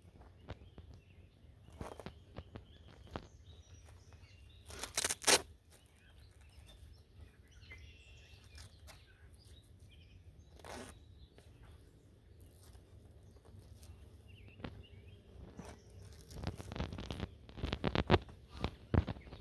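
Rustling and handling noises outdoors. There is a short rasp about five seconds in, the loudest sound, and a run of scraping and clicking strokes near the end. Birds chirp faintly in the background.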